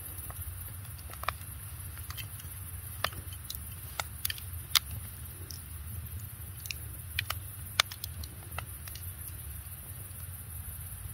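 Wood fire crackling: irregular sharp pops and snaps, a dozen or so, over a steady low rumble.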